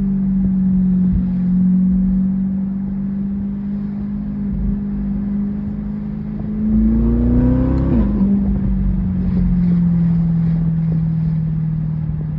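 2023 C8 Corvette Z51's 6.2-litre LT2 V8 through an AWE Track exhaust, running at steady revs. About seven seconds in the revs climb, then drop sharply at a gear change and hold lower.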